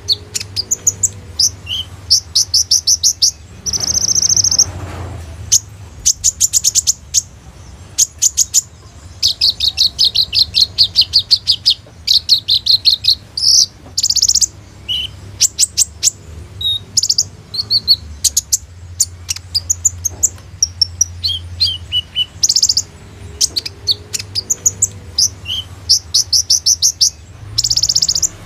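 Brown-throated sunbird (kolibri ninja) singing: quick runs of rapid high trills and sharp chirps, with a short buzzy note about four seconds in. A faint steady low hum lies underneath.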